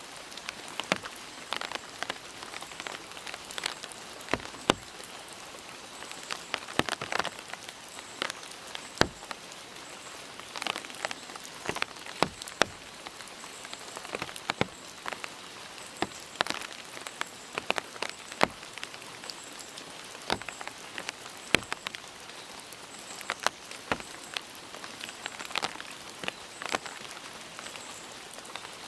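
Steady rain hissing, with irregular louder drops ticking close by, several a second.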